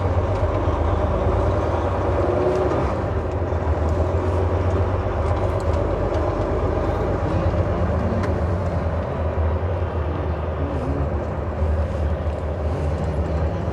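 Semi-truck's diesel engine running with a steady low drone, mixed with road noise as the truck drives along.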